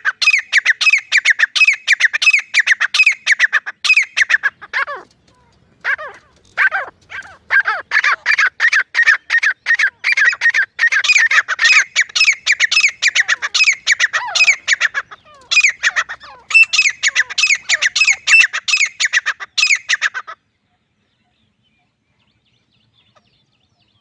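Grey francolin calling: a fast, loud series of short harsh notes, several a second, with a brief break about five seconds in. It stops abruptly about four seconds before the end.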